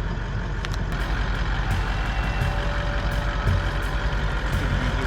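Vehicle running on a rough bush track, heard from inside the cab: a steady low engine rumble and road noise with occasional rattles and clicks.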